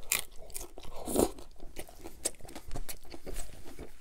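Close-miked chewing of crunchy taco, with irregular crunches and a louder crunch a little over a second in.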